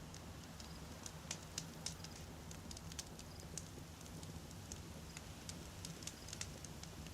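Wood campfire crackling, with irregular sharp pops and snaps from the burning logs, a few each second, over a steady low rumble.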